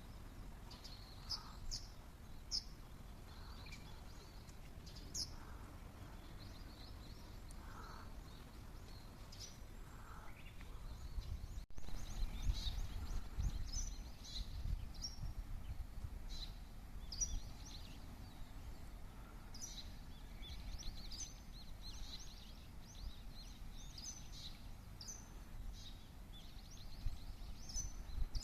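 Small birds chirping and calling, many short high chirps in quick succession, over a low background rumble. The sound breaks off for an instant about twelve seconds in, and the rumble is louder for a few seconds after.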